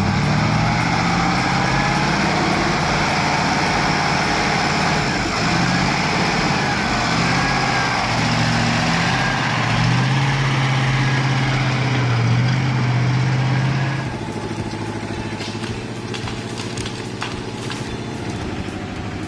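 Heavy truck engine running hard under load, its pitch rising and falling as it revs. About fourteen seconds in it drops to a quieter, steadier run.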